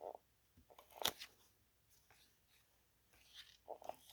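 Faint rustling and a few light ticks of paper and cardstock being handled, with a sharper tick about a second in and a cluster of small rustles near the end.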